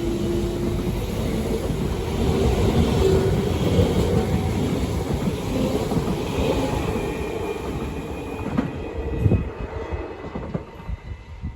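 A train passing over a level crossing: a loud, steady rumble of wheels on rail that dies away over the last few seconds, with a few separate clacks as the last wheels pass.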